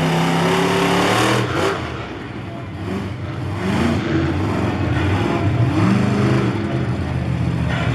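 Monster truck engine running loud and revving: a steady drone that drops off about a second and a half in, then rises in pitch in several rev swells.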